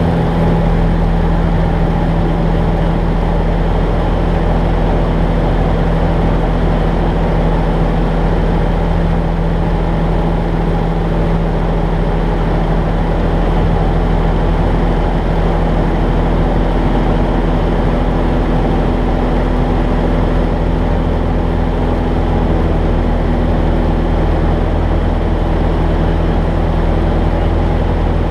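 Jabiru J-170 light aircraft's four-cylinder Jabiru 2200 engine and propeller running at steady power, a constant loud drone with several steady tones.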